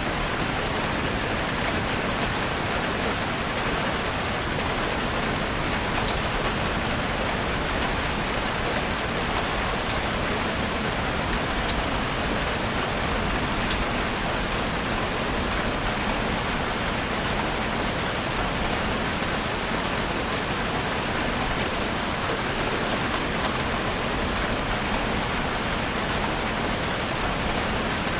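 Heavy rain drumming steadily on a roof, a dense even hiss with scattered individual drop ticks.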